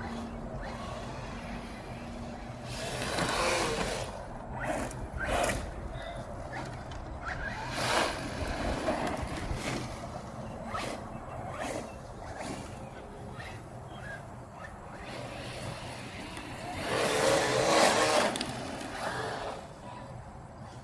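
Mojave 4S radio-controlled desert truck being driven, with several noisy surges as it passes or throws dirt, the loudest about 17 to 18 seconds in.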